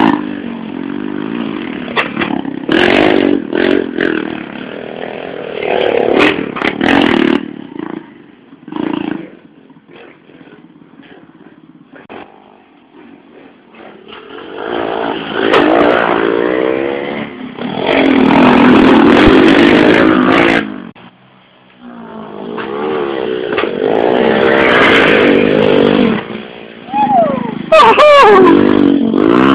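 Several 110cc motorcycles racing past one after another, engines revving up and down with each pass. There is a quieter lull about a third of the way through.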